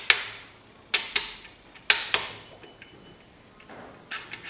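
Sharp metal clinks and taps of tools and parts as the connecting rod caps are worked off a seized small-block Chevy 350. There are single strikes about a second apart, then a quick run of lighter clinks near the end.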